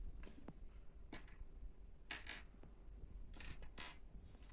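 Faint clicks and light rustling of small plastic Lego pieces being handled: a few short sharp ticks, two pairs of them close together in the middle and latter part.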